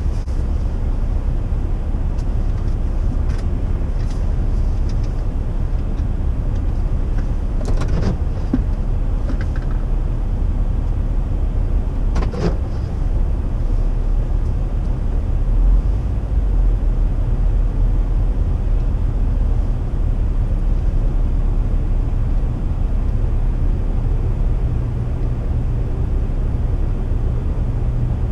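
Steady low rumble of a car idling or creeping along, with a few brief clicks about 4, 8 and 12 seconds in.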